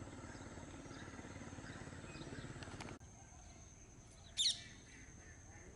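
An engine running with a steady pulsing drone stops abruptly about three seconds in. About a second later a single short, sharp bird call is the loudest sound, over faint outdoor ambience.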